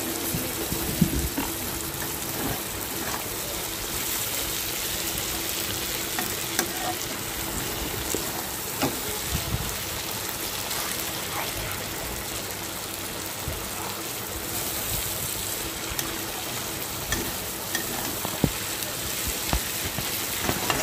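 Food sizzling in a steel kadai while a metal spatula stirs and scrapes through it, with scattered sharp clicks of the spatula on the pan.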